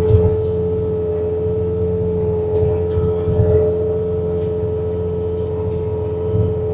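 Bobcat T66 compact track loader's diesel engine and hydraulic drive running steadily under load while working a snowblower attachment, with a steady high whine over a low rumble and a few faint ticks.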